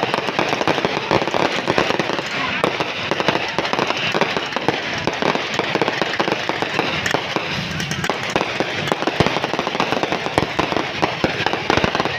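Fireworks going off without a break: a dense, rapid run of cracks and pops.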